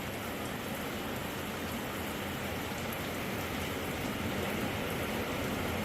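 Steady rain falling on a shed roof, a constant hiss of drops that grows a little louder in the second half.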